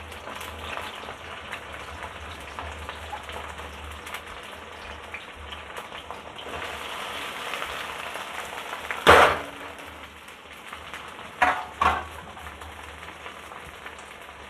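Cut okra frying in hot oil in a kadai: a steady sizzle, with one loud clatter about nine seconds in and two shorter ones a couple of seconds later.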